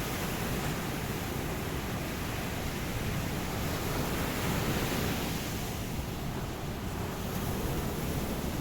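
Ocean surf: a continuous rush of waves on a beach that swells about halfway through and then eases off.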